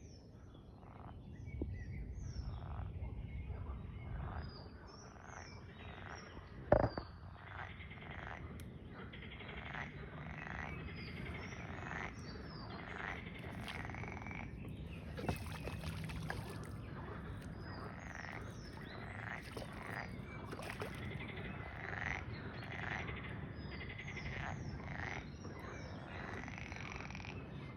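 A chorus of frogs croaking, with many short calls repeated in quick succession, and small birds chirping higher above them. There is a single sharp knock about seven seconds in.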